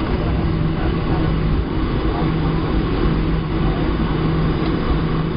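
Steady jet engine and airflow noise heard inside the cabin of a Boeing 737-700 with CFM56 turbofans. A low hum runs under it and drops out briefly twice.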